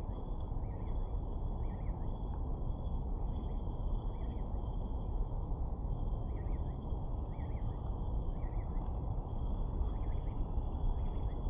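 A bird calling in short warbling chirps, repeated roughly once a second with a short pause midway, over a steady low rumble.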